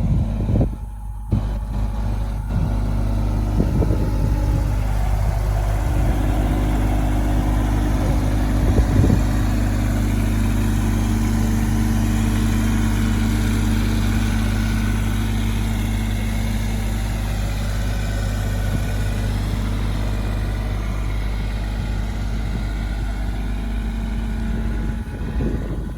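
Bobcat E26 mini excavator's diesel engine running steadily, with a few knocks in the first nine seconds or so.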